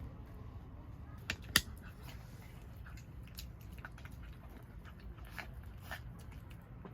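A dog crunching and chewing food: scattered sharp crunches, the loudest two close together about a second and a half in, over a low steady rumble.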